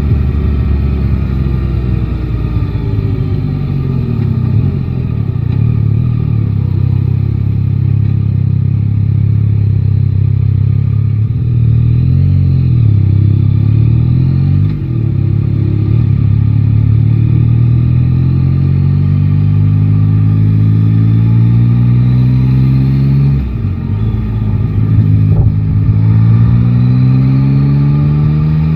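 Yamaha Tracer 9 GT's 890 cc inline-three engine under way: the engine note falls as the bike slows at first, holds fairly steady, then rises steadily under acceleration through the second half. Near the end it dips suddenly and briefly, then climbs again.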